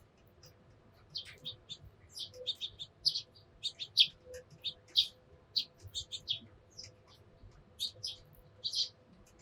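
Eurasian tree sparrows chirping: a run of short, high chirps in irregular clusters, with a brief pause near the end before more chirps.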